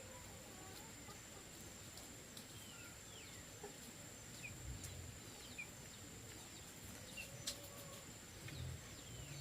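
Small birds chirping in short, scattered calls over a steady high-pitched insect drone.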